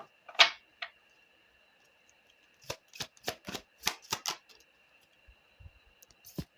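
A tarot deck being shuffled and cards drawn: short, crisp card snaps and clicks, a single one early and then a quick run of them about three seconds in.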